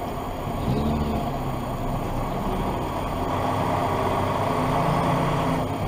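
Car engine and road noise from inside a moving car, a low steady hum that strengthens about a second in and again near the end.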